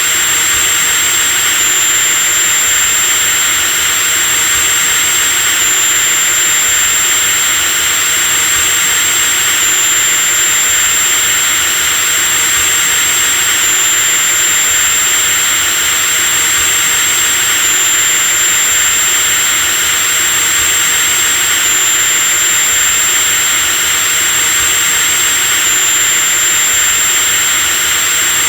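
Electric drill running continuously at a steady speed, a loud high-pitched motor whine over a rushing hiss. The whine shifts very slightly about every four seconds.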